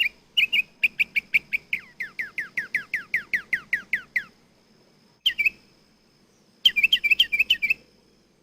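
A bird calling: a rapid run of high chirps, then a fast series of notes that each slide downward, a pause, and two short flurries of chirps near the end.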